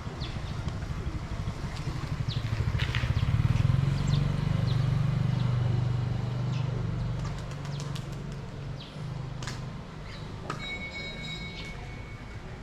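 A motor vehicle's engine passing on the street, swelling to its loudest about four seconds in and then fading, with scattered clicks and chirps of street sound and a short high tone near the end.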